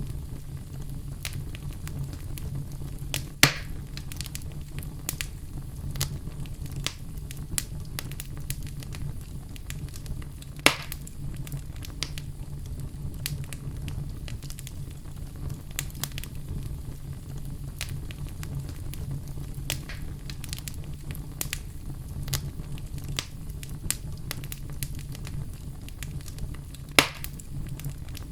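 Wood fire burning in a fireplace: a steady low rumble with constant small crackles and three louder sharp pops.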